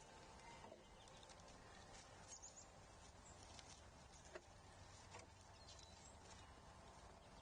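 Faint outdoor ambience at a feeder: scattered light taps and clicks and a few faint, brief high bird chirps over a low steady rumble.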